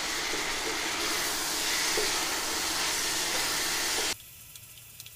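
Elephant foot yam pieces sizzling in oil in a frying pan as they are stirred with a wooden spatula; the steady sizzle drops away suddenly about four seconds in.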